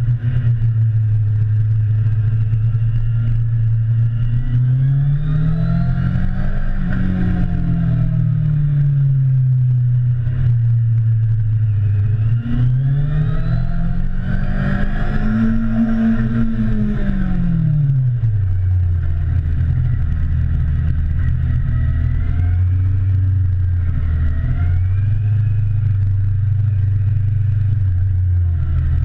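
Motorcycle engine heard on board while riding: a steady note that rises and falls twice as the rider accelerates and eases off, then settles to a lower steady note after about 18 seconds.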